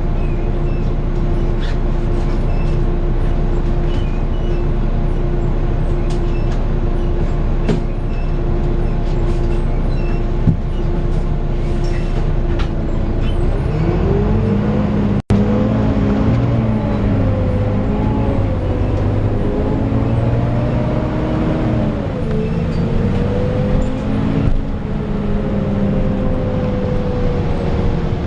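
Volvo B9TL bus's six-cylinder diesel engine heard from inside the bus: a steady idle rumble with a level whine. About halfway through, it pulls away, its pitch rising and dropping back several times as the automatic gearbox changes up. The sound cuts out for an instant just after it starts moving.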